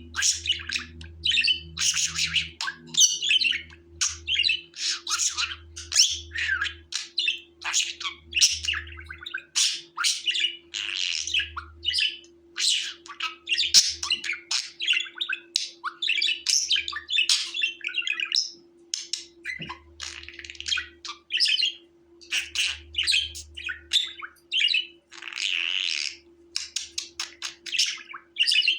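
Budgerigar chattering and warbling: a continuous, rapid run of short chirps and squawks with no pauses longer than a moment, over a faint steady hum.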